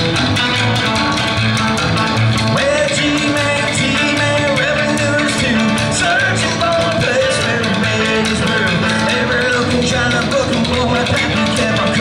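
Live rock-and-roll band playing an instrumental break, an electric guitar carrying the melody over bass and a steady drum beat.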